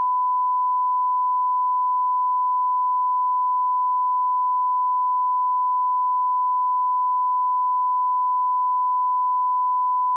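Continuous 1 kHz sine-wave line-up test tone at −18 dB, a single pure, unwavering pitch that cuts off abruptly at the end.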